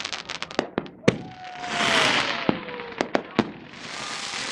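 Fireworks and firecrackers going off at close range: a quick run of sharp bangs, a loud bang about a second in, then a hissing rush with a falling whistle. Several more single bangs follow, and a crackling hiss builds near the end.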